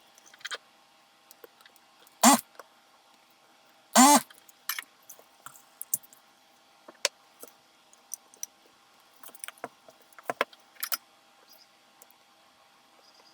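Metal computer parts being handled during assembly: scattered clicks and light knocks, with two loud metallic clanks about two and four seconds in that ring briefly.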